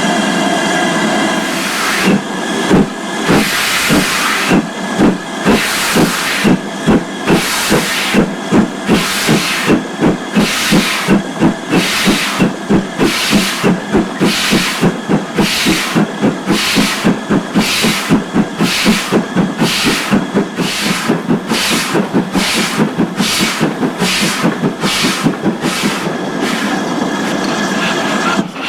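Steam locomotive, the GWR 2-8-0 tank No. 4277, pulling away: after about two seconds of steady steam hiss, regular chuffs of exhaust begin, slow at first and coming faster as the train gathers speed.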